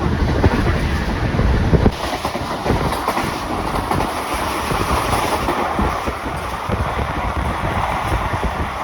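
Passenger train running along the line, its wheels clattering over the rail joints with a steady rumble. The deep rumble eases about two seconds in.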